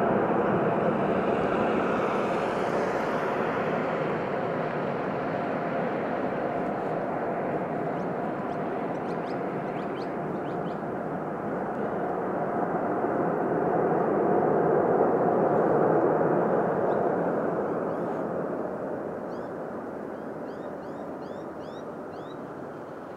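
Airbus A380 with four GP7200 turbofan engines passing on its landing, a loud jet rush with a steady whine in it, swelling again about two-thirds of the way through and then fading away. Short high bird chirps come in near the end.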